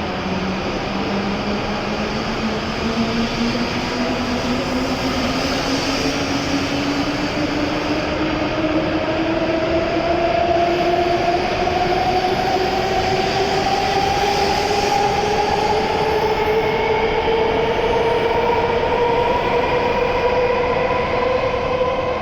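E7-series shinkansen pulling away from the platform, its traction motors giving a whine that climbs smoothly and steadily in pitch as the train gathers speed, over a rising rumble of wheels and running gear.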